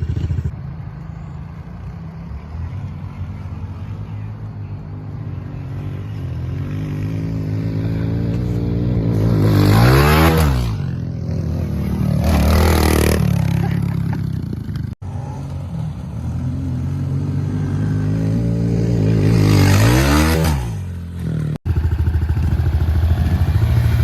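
A motorcycle engine idles steadily close by. Dirt bikes race past at speed about ten seconds in and again near twenty seconds, their engine note rising and then falling as they go by.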